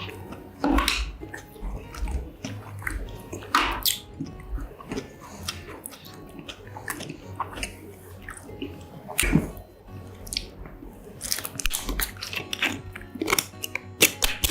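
Close-miked chewing and crunching of a fried mozzarella corn dog, with wet mouth sounds. Sharp crunches come at irregular intervals, the loudest about nine seconds in, over quiet background music.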